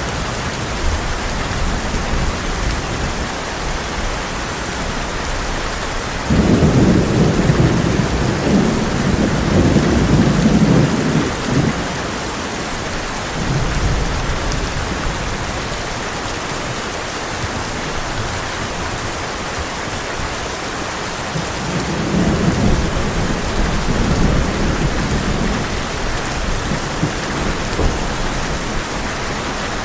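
Heavy rain drumming steadily on a tin roof, with two rolls of thunder, the first breaking in suddenly about six seconds in and rumbling for several seconds, the second rolling about twenty-two seconds in.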